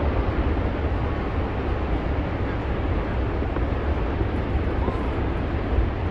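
Steady low rumble and rushing noise of a boat under way: its motor running, with wind and water noise over it.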